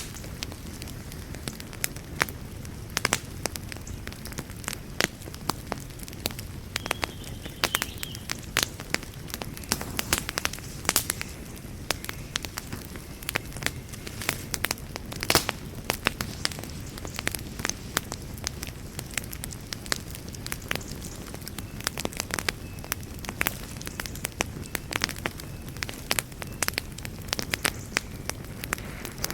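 Wood fire burning in a fireplace, crackling with irregular sharp pops and snaps, several a second and some louder than others, over a steady low rumble.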